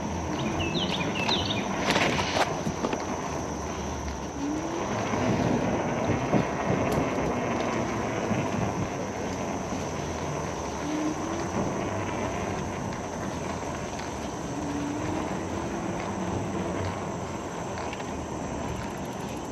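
Steady riding noise of bicycles on a paved path: tyres rolling and wind on the microphone, with a single knock about two seconds in and a few short bird chirps just before it.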